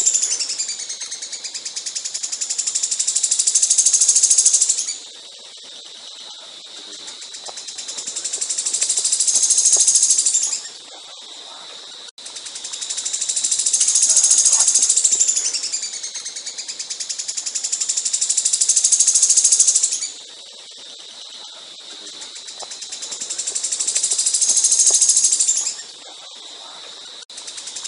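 A caged songbird's rapid, high-pitched trilled song, delivered in loud swelling bursts of several seconds each with quieter gaps between them. The same sequence of bursts repeats about every 14 seconds.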